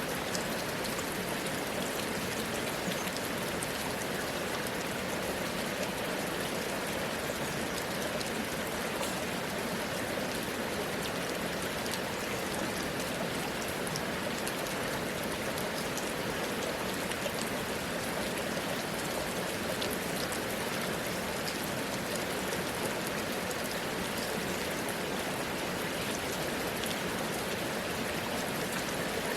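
Steady heavy rain falling, a continuous hiss with scattered drop ticks and water running off.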